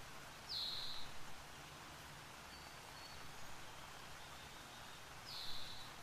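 A bird calls twice, about half a second in and again near the end: each a short note that drops in pitch and then holds briefly, with a few faint thin high notes between. Under it runs a faint, steady hiss of falling water from the waterfall.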